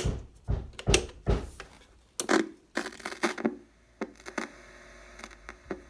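Old household items being handled and moved about by hand: irregular knocks, clicks and rustling, busiest in the first three and a half seconds, then a few scattered taps.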